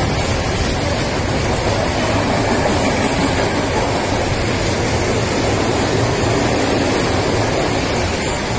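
Freight train running, a steady rushing rumble of wheels on track that eases slightly toward the end.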